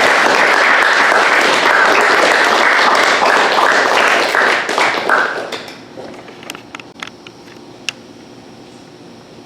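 Audience applauding. The clapping fades out about five and a half seconds in, leaving a quiet room with a few small clicks and knocks.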